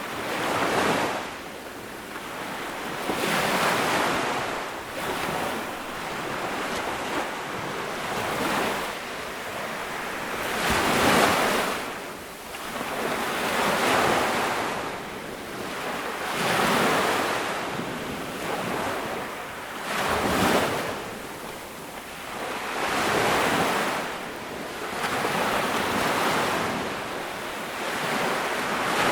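Ocean waves washing onto a beach, each wave swelling into a rushing surge and then ebbing, about one every two and a half to three seconds.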